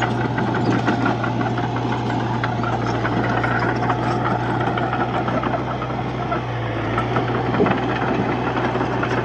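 Komatsu D31-P bulldozer's diesel engine running steadily under work, with a dense rattle over it. The engine note sags briefly about six seconds in and then recovers.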